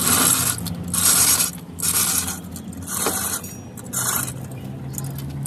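Rhythmic scraping strokes, about one a second, over a steady low hum.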